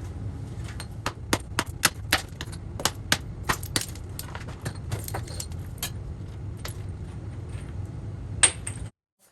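A metal hand tool picking and scraping crumbling mortar out of fieldstone joints: irregular sharp clinks and knocks of metal on stone, over a steady low hum. The sound cuts off abruptly near the end.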